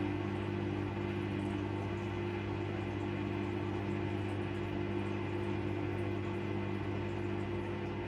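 Siemens WM14T490 front-loading washing machine running through a wash cycle: a steady, even drone with a constant low hum. The machine's drum bearings are damaged.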